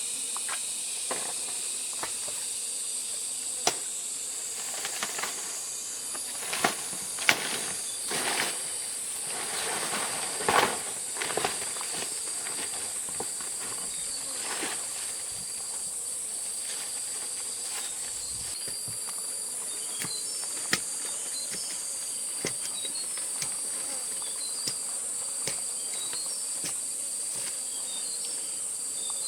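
Steady high-pitched drone of forest insects, with a broken higher chirping that joins about a fifth of the way in. Scattered knocks and rustles of handling come through, thickest about a third of the way in.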